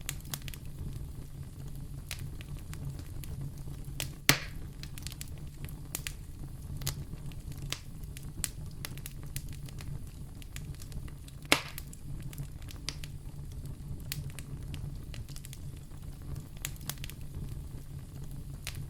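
Wood fire in a fireplace crackling steadily with many small ticks over a low rumble, with two sharp loud pops, one about four seconds in and another about eleven and a half seconds in.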